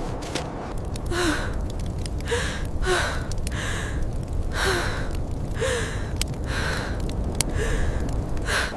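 A person gasping: a run of short, sharp breaths, roughly one a second, some with a small catch of voice, over a steady low rumble of wind.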